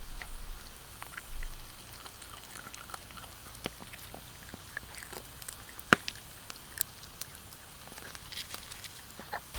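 People eating grilled chicken: chewing and biting, with scattered small clicks and taps and a sharper click about six seconds in.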